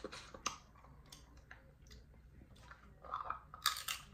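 A person chewing crab gumbo, with wet mouth clicks and lip smacks, plus a finger-sucking sound near the start.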